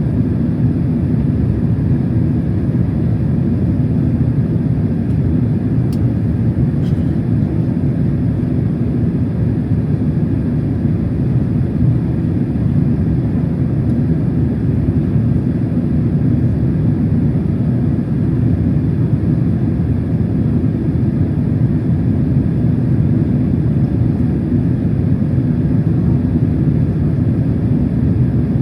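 Steady cabin noise inside a Boeing 767-300 airliner: an even, unchanging low rumble of engines and airflow. Two faint clicks come about six and seven seconds in.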